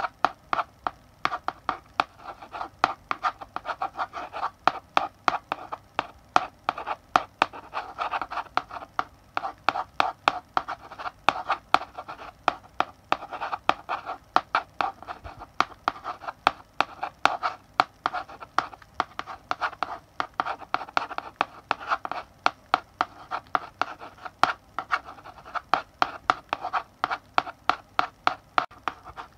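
Chalk writing on a blackboard: a quick, uneven run of sharp taps and short scratching strokes, several a second.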